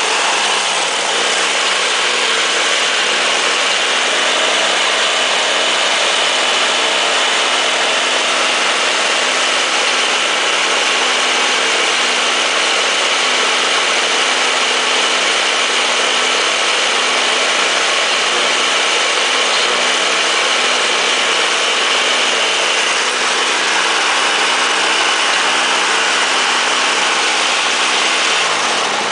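Jacobsen snowblower's two-stroke Tecumseh engine running steadily just after a cold start, its speed wavering slightly about a second in and again in the last few seconds. At the very end it is shut off and winds down.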